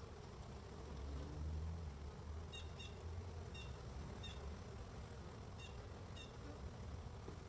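A bird gives short two-note chirps, repeated every half second to a second from about two and a half seconds in. Beneath them is the faint steady hum of honeybees at a busy hive, with a low rumble that swells early on.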